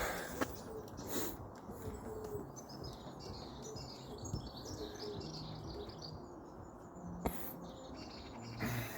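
Small birds chirping in the background, with one sharp knock about seven seconds in.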